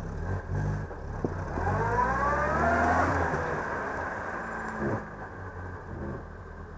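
Off-road 4x4's engine under way, revving up for a second or two and then easing off again.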